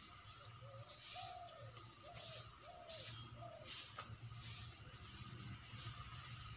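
Faint bird calls: a short series of brief, arched notes in the first four seconds, with soft scuffing noises about once a second throughout.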